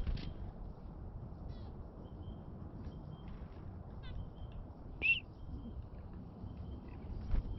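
Chickadees calling: scattered short, high chirps and thin whistled notes, with one louder rising chirp about five seconds in, over a steady low rumble.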